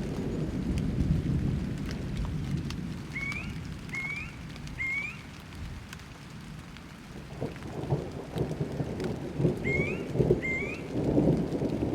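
Thunderstorm ambience: steady rain with a low rolling rumble of thunder that eases in the middle and swells again near the end. A bird gives short rising chirps over it, three in a row and then two more later.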